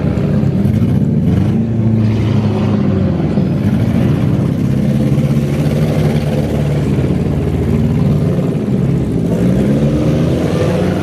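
Demolition derby compact cars' engines revving loudly, their pitch rising and falling again and again as the cars push and ram in the arena.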